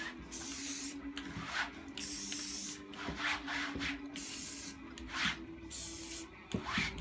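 A paint-loaded rag rubbed across a canvas in short hissing strokes, roughly one every second or so.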